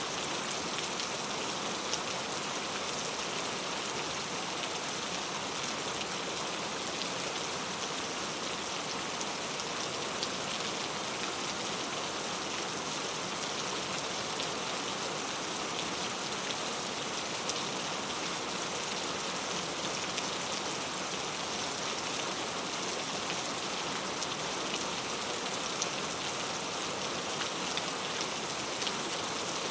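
Steady rain falling, an even hiss of rainfall with faint scattered drop ticks.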